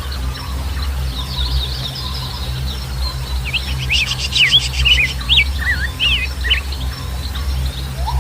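Wild birds chirping and calling in quick rising and falling notes, with a fast rattling trill about four seconds in, over a steady low rumble.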